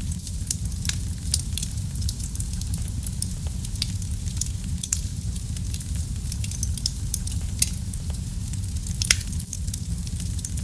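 Wood fire burning in a fireplace: a steady low rumble of flames with irregular crackles and snaps, and two louder pops in the second half.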